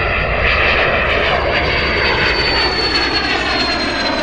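Jet aircraft engine running loud, its high whine falling slowly in pitch.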